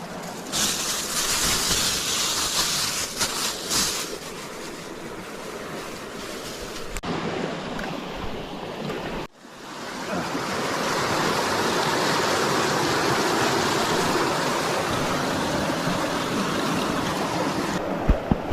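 Creek water rushing steadily, with a louder hiss in the first few seconds. The sound cuts off abruptly about nine seconds in and resumes as a steady, fuller rush.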